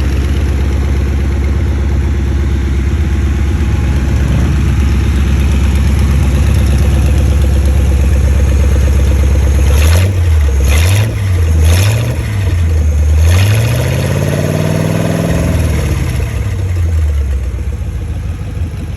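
Ford V8-60 flathead engine in a motorcycle idling steadily, then blipped three times in quick succession and given one longer rev that rises and falls back to idle.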